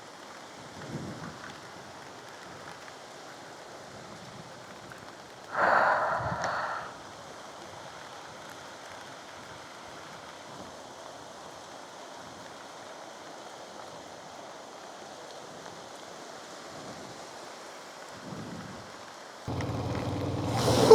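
Steady rain falling, an even hiss, with a louder rush lasting about a second roughly a quarter of the way in. Near the end a low steady hum with several even tones joins it.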